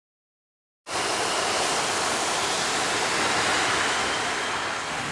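Steady rushing noise of beach surf and wind buffeting the microphone. It cuts in abruptly about a second in.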